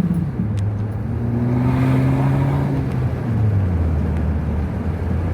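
2012 Acura RDX's turbocharged 2.3-litre four-cylinder through a muffler-delete exhaust with a Magnaflow glasspack resonator, accelerating. The engine note climbs, drops sharply about three seconds in as the throttle lifts or the gearbox shifts, then holds at a steady lower pitch. The Turbosmart blow-off valve vents as the throttle lifts.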